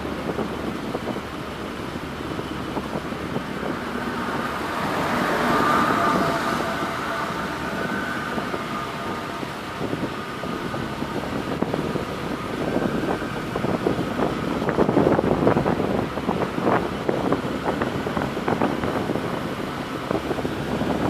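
Street noise with a vehicle passing, swelling about a third of the way in, and wind on the microphone; irregular crackling through the second half.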